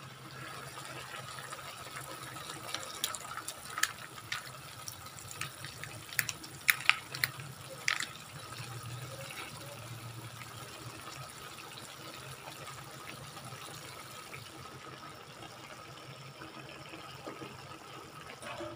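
Chicken and vegetables frying in a pan, a steady sizzle, with a cluster of sharp crackles and clicks about three to eight seconds in.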